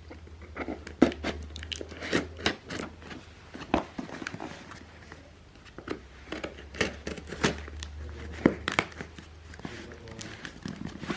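Packaging being torn and crinkled open by hand: an irregular run of tearing, rustling and crackling.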